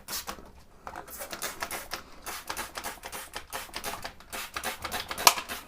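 Spray bottle squirting solvent onto a sewing machine, a quick run of short sharp hisses several times a second, the loudest one near the end.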